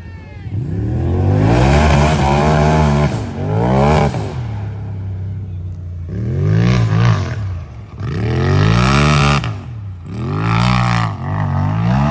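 Race UTV engine revving hard, its pitch climbing and falling about five times as the throttle is worked on and off over the course.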